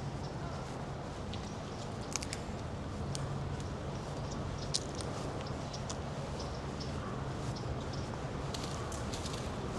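Outdoor resort ambience: a steady low hum, like a machine running, under a general background wash, with scattered sharp clicks at irregular spacing.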